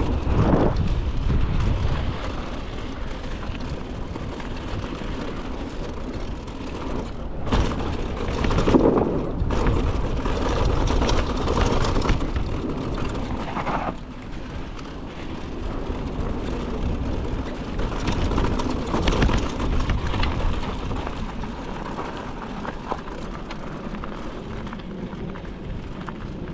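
Mountain bike ridden down a dirt trail: wind buffeting the camera microphone over tyre noise and the rattle of the bike, with a few sharp knocks about a third of the way in.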